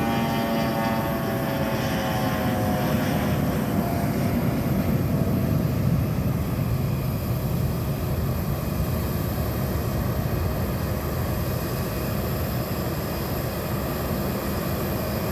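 Airplane flying past, its engine tone falling in pitch over the first few seconds as it goes by, then a steady rumble.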